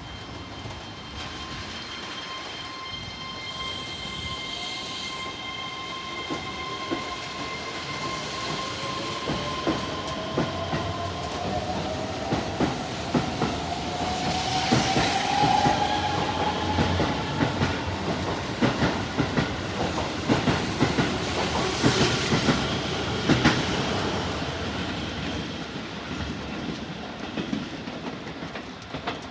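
3000-series electric train pulling away and passing, its traction motors giving a whine that rises in pitch as it gathers speed. The wheels clack over rail joints, loudest in the middle of the pass, then fade as it goes.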